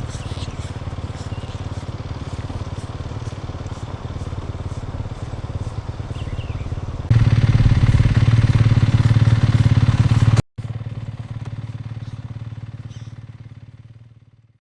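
Yamaha WR250F's single-cylinder four-stroke engine running at a steady pitch. It jumps suddenly louder about seven seconds in, breaks off for an instant a few seconds later, then fades away near the end.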